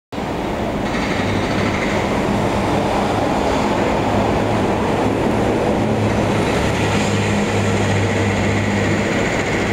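MTR SP1950 electric multiple unit train pulling into a station: steady rumbling noise with a low hum and a faint high whine.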